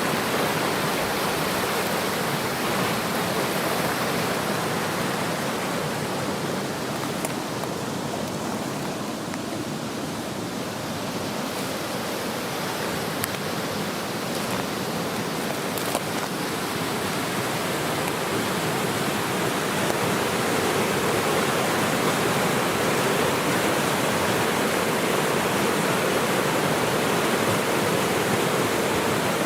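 Steady rushing of a fast-flowing stream, an even noise with no pitch, a little louder in the second half.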